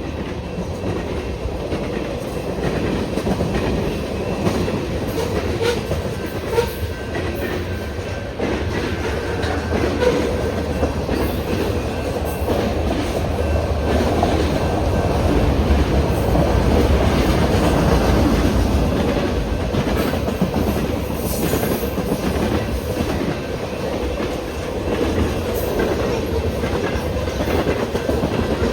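A train running along the track: a continuous rumble with occasional knocks, growing a little louder in the middle and then easing back.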